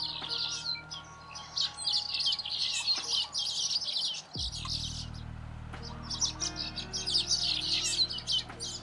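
Weaver birds chattering: dense runs of rapid high chirps in two long bouts with a short lull in the middle, over a steady low hum that cuts out briefly about four seconds in.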